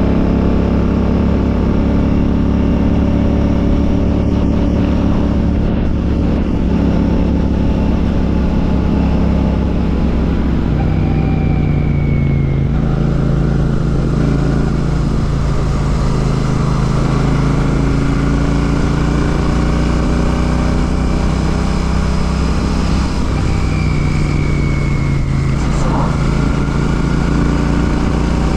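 Royal Enfield Classic 650's 648 cc parallel-twin engine running through an aftermarket Ngage exhaust while riding. The engine note climbs slowly and then steps down twice.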